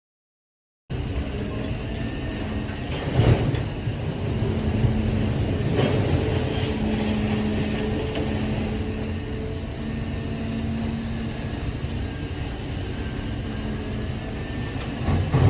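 Idromec T 650 CLS scrap metal shear baler running after a second of silence: a steady machine drone, with loud metal clanks about three seconds in and again near the end as scrap is handled and pressed.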